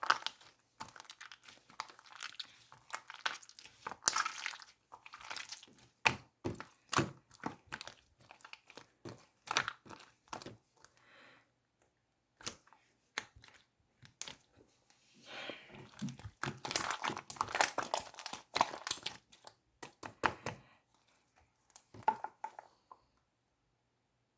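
Marbled slime being squeezed and stretched by hand, giving dense crackling and clicking pops in bursts with short pauses. It stops near the end.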